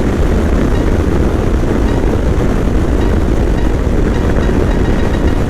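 Motorcycle riding at speed: steady engine rumble mixed with wind rushing over the microphone.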